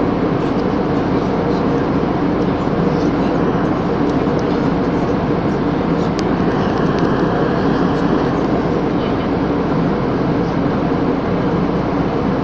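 Steady drone of an aeroplane in flight heard inside the cabin: engine and airflow noise, loud and unchanging.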